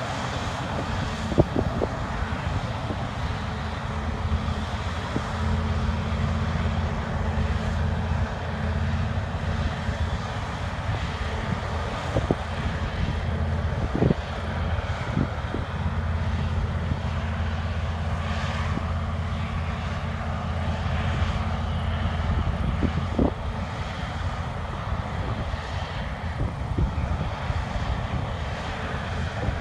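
Diesel engine of large harvest machinery running steadily, a low drone with a few short knocks.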